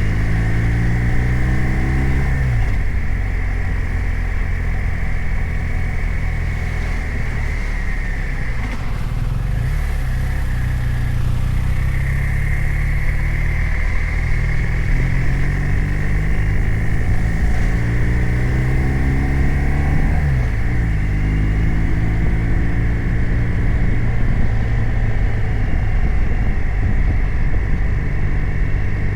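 BMW R 1250 RT's 1254 cc boxer twin engine running under way, its pitch climbing as it accelerates and then dropping sharply at a gear change, about two seconds in and again about twenty seconds in.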